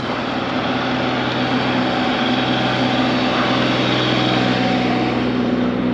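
A motor vehicle's engine droning steadily as it passes close by, swelling slightly in the middle.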